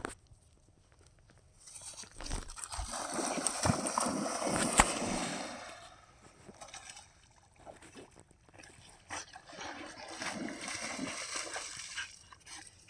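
Two spells of scuffling noise, the first louder, from a dog running after and retrieving a thrown stick.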